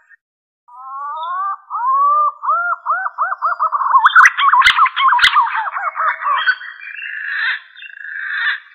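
Green pigeon (punai) calling: a whistled call that begins with rising glides about a second in and runs into a quickening series of looping, wavering notes, then turns rougher and buzzier in its second half. Two sharp clicks come near the middle.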